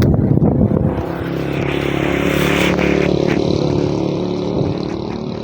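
Wind buffeting the microphone, then an engine running with a steady hum from about a second in, with a surge of hiss around the middle.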